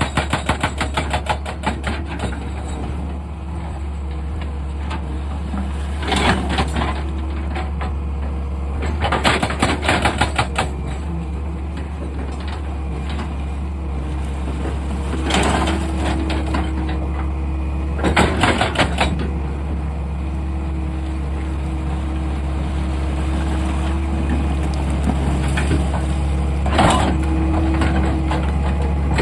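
An excavator's diesel engine running steadily, with several short bursts of rapid knocking against rock and a steady hydraulic hum in the second half.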